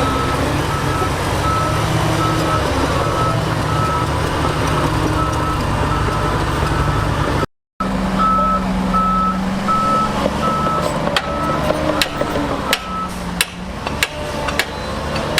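Diesel heavy equipment running with its reversing alarm beeping in a steady repeating pattern as it backs up; the beeping stops a couple of seconds before the end. In the later part, several sharp metallic clanks and knocks sound over the engine.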